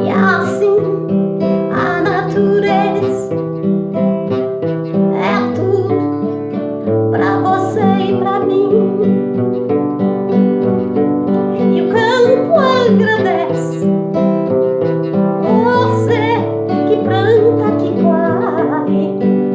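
Song accompaniment led by plucked acoustic guitar, playing steadily between sung verses.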